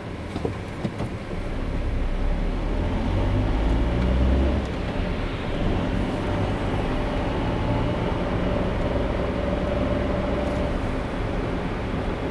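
Car driving on a road: a steady low rumble of tyres and engine that grows louder about two seconds in, with a few light clicks near the start.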